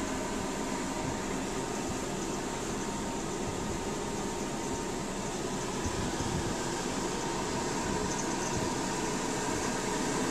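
Steady mechanical hum with a fan-like rush and a faint constant tone, unchanging throughout.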